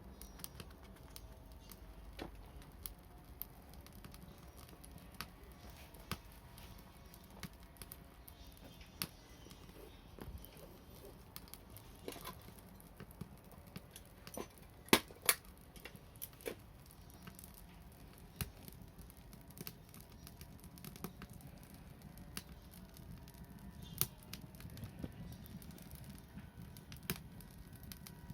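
Wood fire crackling, with irregular sharp pops and snaps from the burning wood and two louder pops about halfway through.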